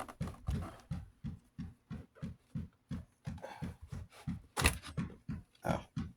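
Plastic guard clips on a Duracraft box fan being pushed and worked loose, with one loud snap about four and a half seconds in. Underneath runs a steady train of soft pulses, about three a second.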